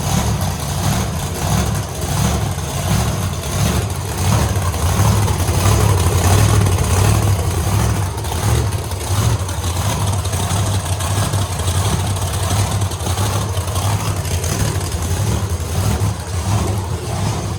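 Supercharged 540 big-block Chevy V8 on alcohol fuel, firing up abruptly and running steadily, its level rising and falling slightly.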